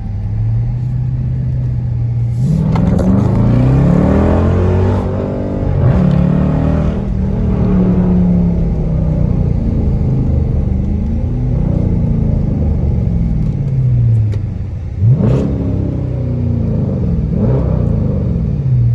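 Dodge Charger with a straight-pipe exhaust (mufflers and resonators deleted) idling, then revved up and let back down several times, with two quick sharp throttle blips near the end before it settles back to idle.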